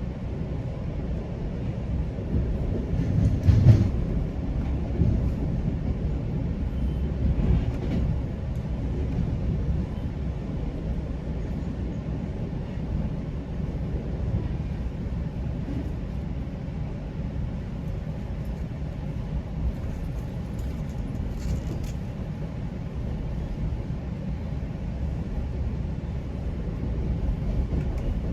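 GO Transit commuter train running along the track: a steady low rumble of wheels on rails, with a louder bump about three and a half seconds in and a smaller one near eight seconds.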